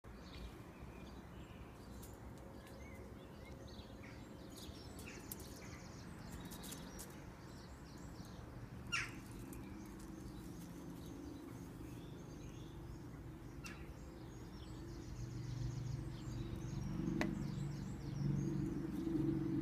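Garden birds chirping and singing over steady background noise, with one louder call sweeping down in pitch about nine seconds in. A low rumble builds from about fifteen seconds in.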